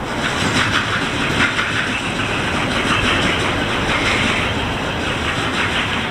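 Freight train rolling past, its wheels clattering over the rail joints in irregular clicks over a steady rumble.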